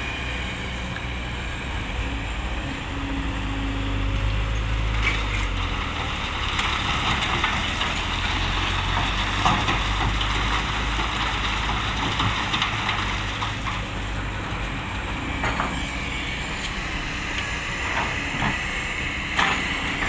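Kobelco SK200 hydraulic excavator's diesel engine running steadily, its low hum rising and falling as it works, with scattered sharp knocks and clanks.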